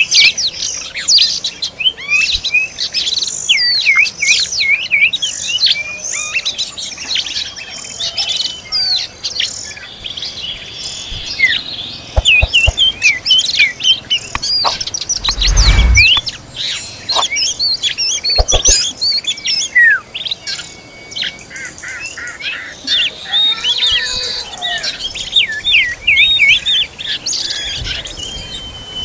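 Oriental magpie-robins (kacer) giving a dense, continuous run of rapid high chirps and whistles. A short low thump comes about halfway through, with a few clicks around it.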